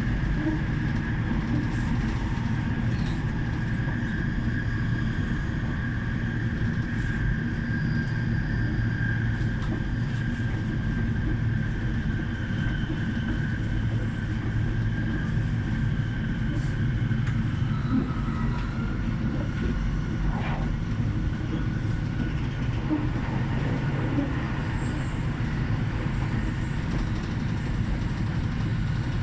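Electric train running alongside a station platform: a steady low rumble with a thin high whine that slowly falls in pitch.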